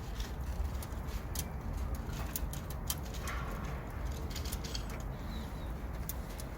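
Wood fire crackling in a wood-burning stove: scattered sharp crackles over a low, steady rumble.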